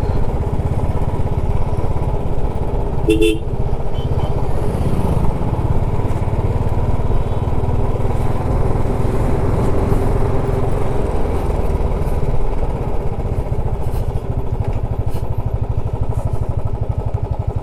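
Motorcycle engine running on the move, with wind noise on the microphone; a vehicle horn sounds briefly about three seconds in. The engine's beat turns more even in the last few seconds.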